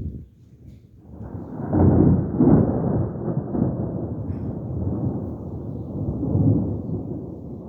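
Rolling thunder: a low rumble that swells in about a second in, is loudest about two seconds in, then keeps rumbling more softly.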